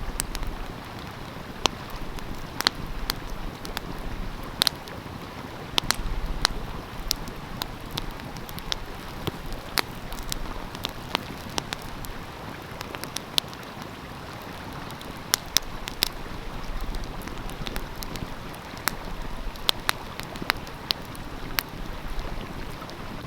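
Wood fire crackling with sharp, irregular pops, over the steady rushing of a stream.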